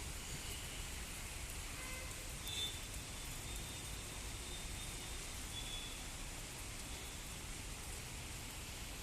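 Steady rain falling, an even hiss, with a few faint short high-pitched tones a couple of seconds in and again past the middle.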